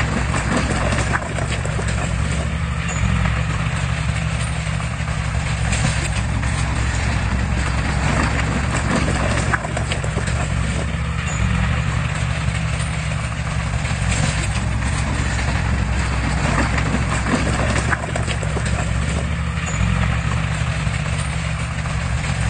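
Diesel engine of heavy earthmoving machinery running steadily, with irregular clanks and clicks over it.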